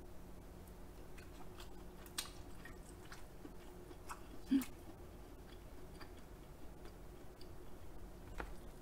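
Close-miked chewing of soft king crab meat: faint wet mouth clicks and smacks scattered through, with one short louder sound about halfway.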